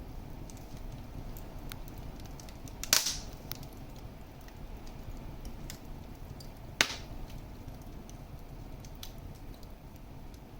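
Wood fire crackling in a fireplace: a steady low rumble of flames with scattered small ticks, and two sharp, loud pops, one about three seconds in and another near seven seconds.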